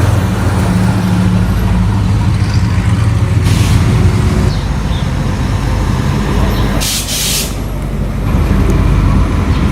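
A motor vehicle's engine running with a steady low rumble, with two short bursts of air hiss, about three and a half and seven seconds in.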